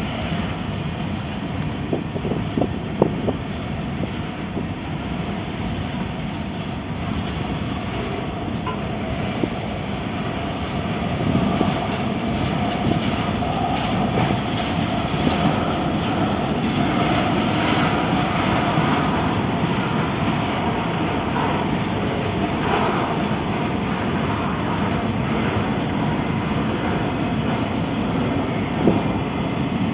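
Freight cars of a CSX manifest train rolling past: a steady rumble and rattle of steel wheels on rail. The rumble grows a little louder part way through, and there are a few sharp clanks.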